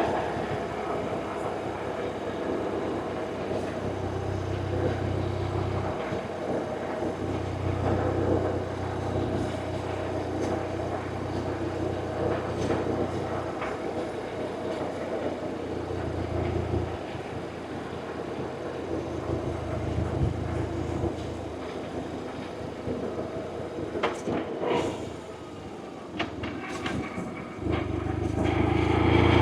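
BMW R1100RT's flat-twin boxer engine running while the motorcycle is ridden, with wind and road noise. The low engine note swells and fades with the throttle, eases off about 25 seconds in with a few clicks, then grows louder again near the end.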